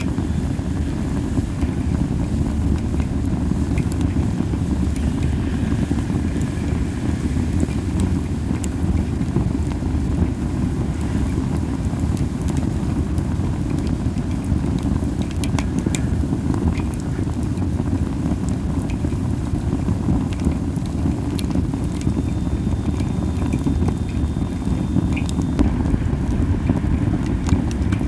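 Masaki (Japanese spindle tree) wood burning in a campfire, with scattered sharp crackles and pops over a steady low rumble of wind on the microphone.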